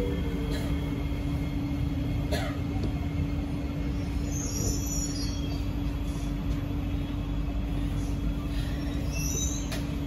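Inside a running SMRT C151B metro car: a steady rumble of wheels on rail under a constant low hum, with a few brief high squeaks and clicks.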